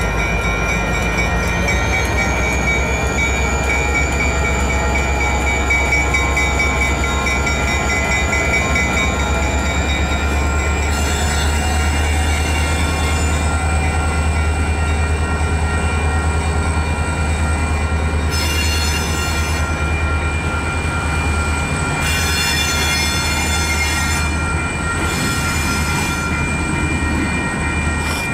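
Freight train rolling slowly through a crossing, with a steady low rumble of the railcars. Its wheels squeal on the rails in several high-pitched bursts, beginning about a third of the way in.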